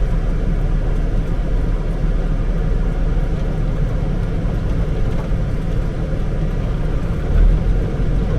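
Diesel engine of a Peterbilt semi truck running at low speed as the rig swings through a tight turn: a steady low rumble heard from inside the cab, which grows louder about seven seconds in.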